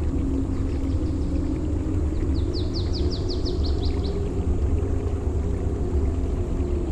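Steady low rumble of beach surf, with a small bird singing a quick trill of about ten falling notes from about two to four seconds in, and a fainter trill about a second in.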